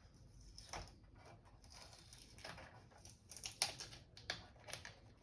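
Faint, scattered clicks and scrapes of hands handling the opened monitor's parts, with one sharper click about three and a half seconds in.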